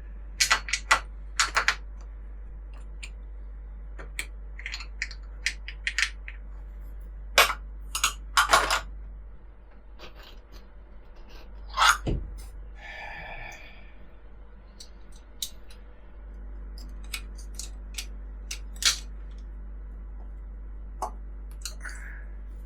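Metal clinks and taps as a steel mounting plate is bolted onto unistrut channel with M10 bolts: a string of sharp, unevenly spaced clicks and clanks, some in quick pairs, over a steady low hum.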